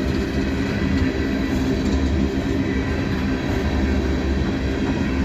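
Freight train cars rolling past slowly, a steady rumble of steel wheels on the rails.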